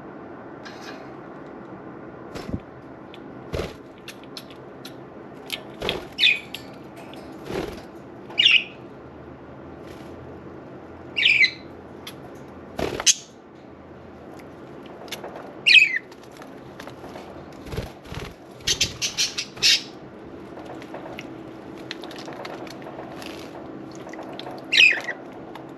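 Budgerigars giving short, sharp squawks every few seconds, each one falling in pitch, with scattered clicks and a brief busy flurry of fluttering about three-quarters of the way through. A steady background sound, likely from the bathing fountain, runs underneath.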